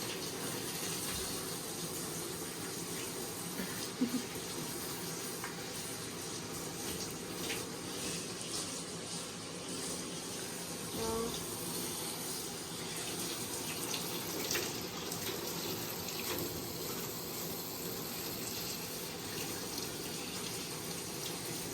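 Steady spray of running water from a grooming tub's shower head as a husky is wetted down, with a few faint knocks.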